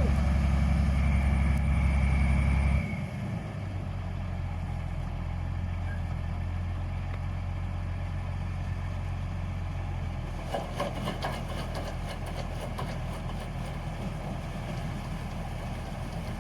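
Paddy harvesting machine's engine running steadily; it drops sharply in level about three seconds in and keeps running lower, with a light rattling joining in about ten seconds in.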